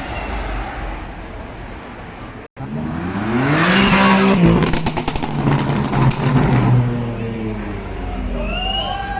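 A car engine revving hard as the car accelerates past, its pitch climbing, with a burst of sharp cracks about halfway through. The pitch then falls away as it passes.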